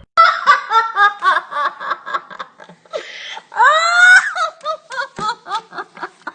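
High-pitched laughing: a rapid run of short ha-ha syllables, with one long rising-then-falling squeal about three and a half seconds in.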